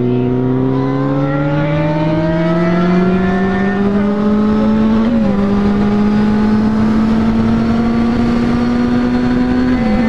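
Kawasaki Z800 inline-four engine pulling hard, its pitch climbing steadily. About five seconds in the pitch dips briefly at a gear change, then holds steady. It dips again at another shift near the end, into sixth gear.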